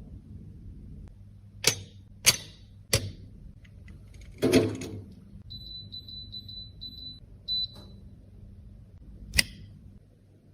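Sharp clicks and taps of small cosmetic items being handled, three in quick succession, then a longer knock and scrape, and one more click near the end. In the middle comes a run of about six short, high electronic beeps.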